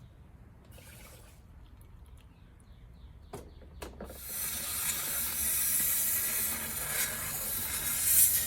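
Two sharp clicks, then about four seconds in a loud, steady hiss of rushing liquid starts, as contaminated fuel is flushed out of a mower's fuel system. The hiss swells near the end and cuts off suddenly.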